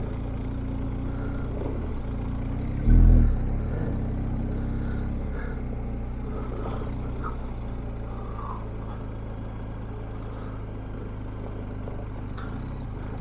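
Motorcycle engine running at a steady cruise with wind and road noise, recorded from the rider's position. About three seconds in there is a brief, louder low thump.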